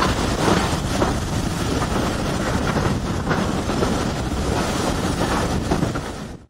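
Running noise of a passenger train heard from an open carriage window: the rumble of wheels on the track with repeated knocks, and wind buffeting the microphone. The sound cuts off suddenly at the very end.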